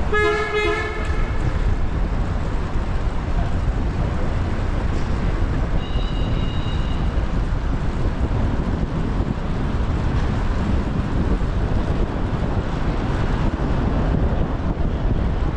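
Steady rumble of city traffic and wind on the microphone of a moving bicycle. A vehicle horn sounds for about a second and a half right at the start, and a brief high two-tone beep follows about six seconds in.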